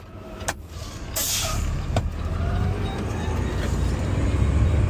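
Garbage truck's air brakes releasing with a short hiss about a second in, then its diesel engine rumbling louder as the truck pulls away.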